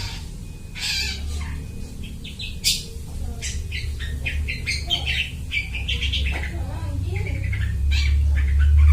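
Long-tailed shrike (cendet) singing a rapid, varied chatter of short high notes, mimicking the calls of other birds, over a steady low hum.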